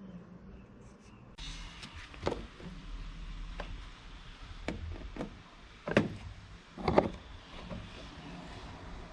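Handling noises during work on a car: a series of about seven separate knocks and clunks, the loudest two near the middle, over a steady hiss.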